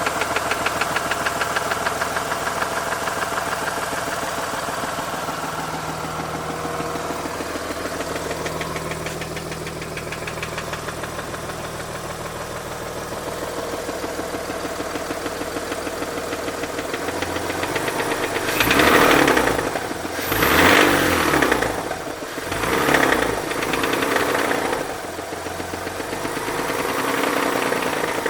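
Mazda RX-8's Renesis twin-rotor rotary engine idling with a fast, steady knocking, then revved in a few quick blips about two-thirds of the way through. The owner places the knock at the rear of the engine or in the clutch, and rules out the SSV.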